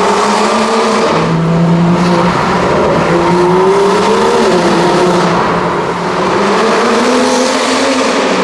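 BMW M2 (F87) straight-six running through an Akrapovič exhaust. The engine note climbs and falls again several times, with one climb about three seconds in and another near the end, as the car accelerates and eases off.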